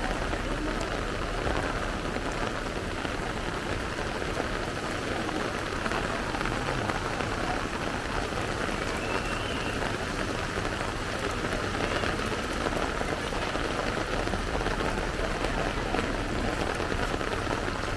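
Heavy rain falling steadily: a dense, even hiss of rain on surfaces and water.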